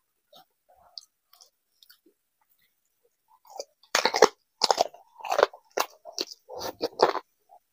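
Close-up mouth sounds of a man biting into and chewing a chicken leg piece: a few faint clicks at first, then loud, wet, crunching bites and chews, about two or three a second, from about four seconds in.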